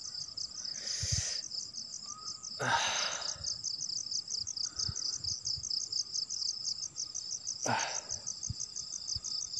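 Night insects, cricket-like, chirping in a steady rapid pulsing trill. Three short noisy whooshes break in, about a second in, near three seconds and near eight seconds.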